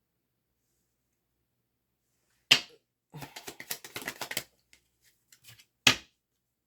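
A tarot card deck being handled on a table: two sharp taps, one about two and a half seconds in and one near the end, with a quick run of card clicks and rustling between them.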